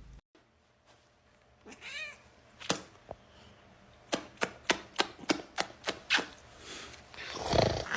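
A domestic cat meows once, with a wavering pitch. This is followed by a run of about ten sharp clicks or taps at uneven spacing, then a louder, rough-sounding noise near the end.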